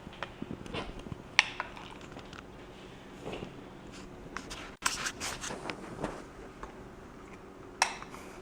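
A spoon scraping and tapping as icing glaze is spread over a pan of cinnamon rolls, with scattered sharp clicks.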